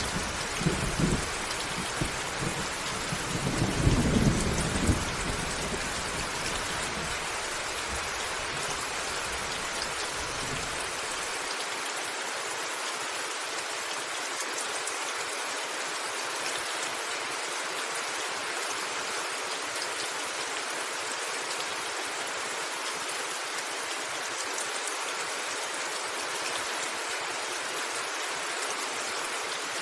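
Steady rain drumming on a roof, with a rumble of thunder that rolls through the first ten seconds or so, loudest about four seconds in. After that it is only the rain's even hiss.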